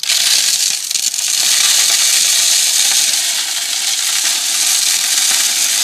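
Bird seed pouring from a scoop through a cut-off plastic milk jug used as a funnel into a bird feeder: a loud, steady rush of small seeds pattering on plastic that starts suddenly and keeps going.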